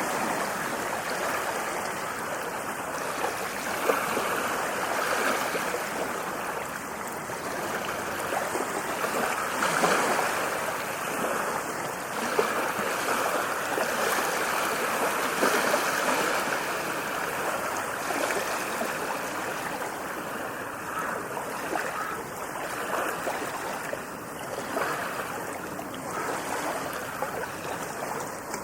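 Ocean waves breaking and washing up a beach: a continuous wash of surf that swells louder and eases off again.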